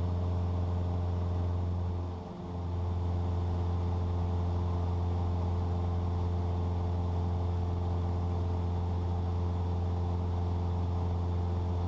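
Cessna 172's piston engine and propeller droning steadily in the cabin during a climb, a deep even hum with steady overtones, dipping briefly about two seconds in.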